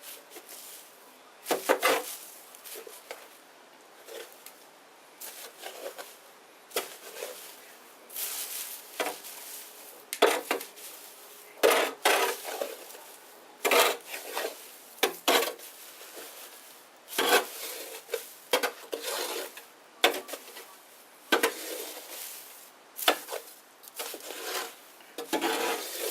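Small wood bonfire crackling, with irregular sharp snaps and bursts of pops over a faint hiss.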